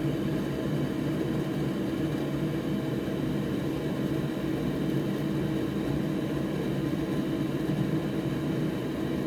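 A steady mechanical hum of a running motor or fan, a low drone over an even hiss that does not change.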